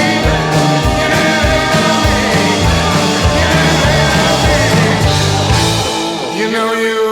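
Rock band playing a loud instrumental passage of a blues-rock song. About six seconds in, the low beat drops out, leaving held notes sounding on their own.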